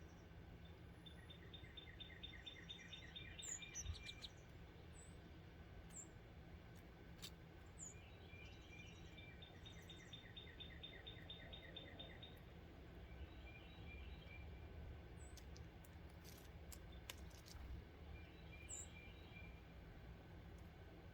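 Wild songbirds at a feeder: two rapid trills of quickly repeated notes, each lasting about three seconds, with fainter trill fragments and short high chip calls, over a faint steady low hum.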